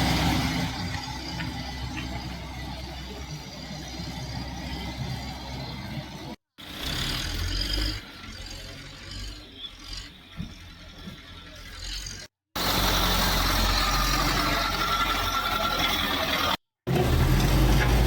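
Car engines and a steady rushing noise in storm-flooded streets. The sound comes as four short clips, each ending in an abrupt cut.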